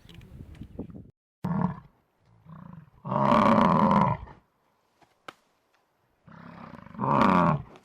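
A large animal's loud roaring calls, about four in a row, the longest lasting about a second and a half.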